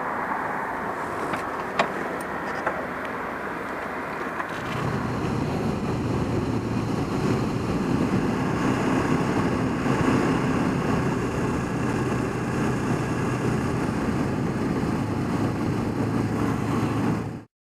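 Motorcycle on the move, heard at the rider: a steady rush of wind and road noise, joined about four and a half seconds in by the engine's steady, louder hum. A couple of sharp clicks sound in the first few seconds.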